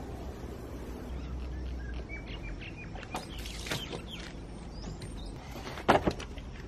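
Birds chirping in short, rising and falling calls over a steady low outdoor hum, with one sharp knock about six seconds in.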